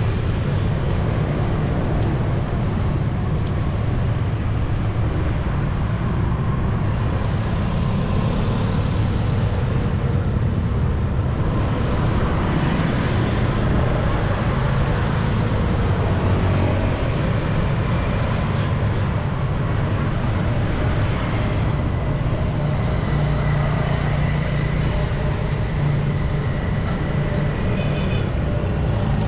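Steady city street traffic heard from a moving bicycle: a constant rumble of passing motorbike and car engines.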